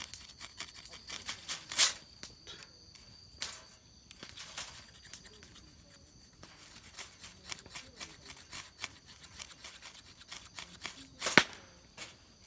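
Small fire of leaves and twigs crackling, a steady patter of irregular sharp pops with two louder snaps, about two seconds in and near the end.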